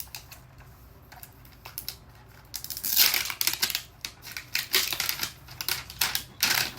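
Plastic packaging being handled and torn open, crinkling and crackling in quick bursts from about two and a half seconds in.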